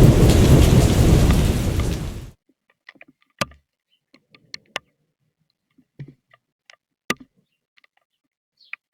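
Thunderstorm downpour with a deep rumble, which cuts off abruptly a little over two seconds in. After that it is near silence with scattered single ticks and drips, like drops landing on a surface.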